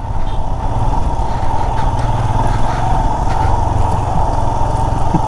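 A motor vehicle's engine running steadily with a low rumble, as on an off-road drive.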